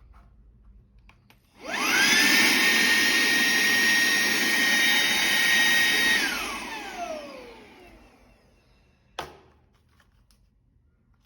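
Shark WandVac WV201 handheld vacuum switched on: its motor spins up in a quickly rising whine and runs steadily with a high whine over the suction noise for about four seconds. It is then switched off and winds down in a long falling whine. A single click follows near the end.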